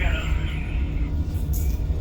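Steady low rumble with background music over it; a hiss in the upper range fades out about halfway through.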